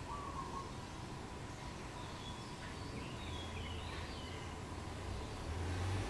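Faint chirps of small wild birds, a few short high calls clustered in the middle, over a steady low background rumble that grows louder near the end.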